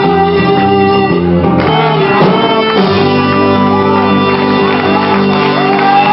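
Live band playing amplified music with sustained chords, which change about three seconds in.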